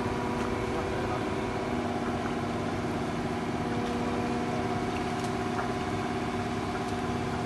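An engine running steadily at a constant speed, with an even hum that does not change in pitch.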